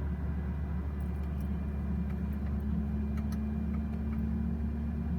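Steady low mechanical drone with a constant hum, as from a running engine or machinery, with a few faint light ticks in the middle.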